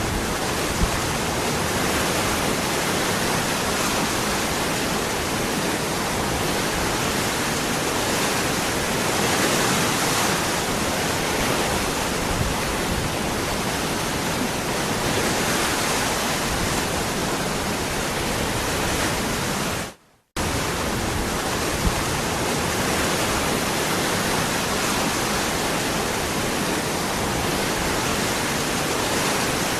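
Steady rushing of a waterfall. About two-thirds of the way through it fades out for a split second, then resumes abruptly.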